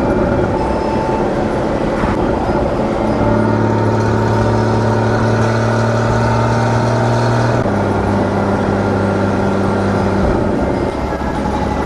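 Porsche Boxster 981's naturally aspirated flat-six engine running through its stock exhaust while driving. The engine note holds steady, steps up in pitch about three seconds in, then drops back in two steps near eight and ten seconds.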